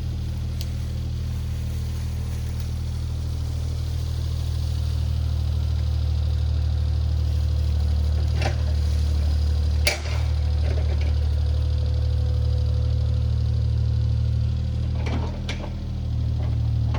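Diesel engine of a compact earthmoving machine running steadily under work, with a few sharp knocks about halfway through and again near the end.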